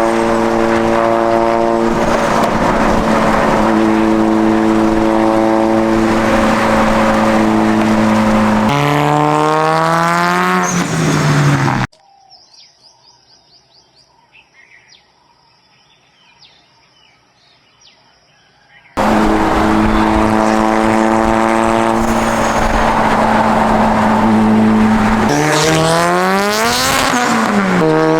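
Mitsubishi Lancer Evolution X's heavily tuned turbocharged four-cylinder engine held at steady revs, then rising in pitch as it revs up. It cuts off abruptly to several seconds of birds chirping, then the engine comes back at steady revs and rises and falls once in a quick rev.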